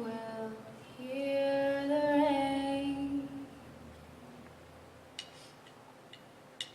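A young female voice singing a solo line, holding one long note with a slight waver for about two seconds, then a quiet pause with a few faint clicks near the end.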